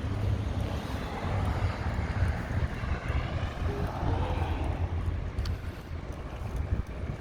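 Steady low wind rumble buffeting the microphone while riding a bicycle.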